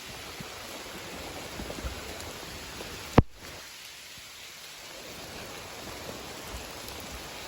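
Steady light rain falling, an even hiss, with one sharp, loud click about three seconds in.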